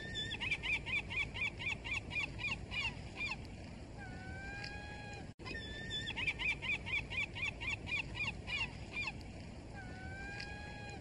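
Gull calling: a long drawn-out call followed by a rapid run of short laughing calls, about four a second, for some three seconds. The same call sequence repeats after a brief dropout about halfway through, over a steady background hiss.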